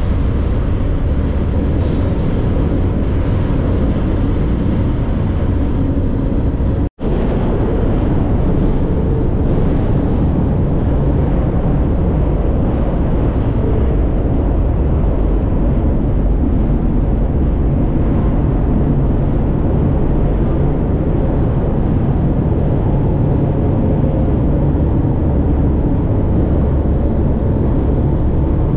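Freight train in motion heard from inside an open boxcar: a loud, steady, deep rumble of wheels on rails and the car body, with air rushing past the door. It breaks off for an instant about seven seconds in, then carries on.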